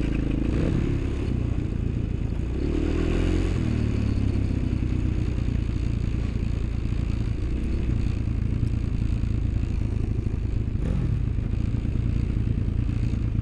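A motor vehicle's engine running steadily under way, with a brief rise in revs about three seconds in and some rattling.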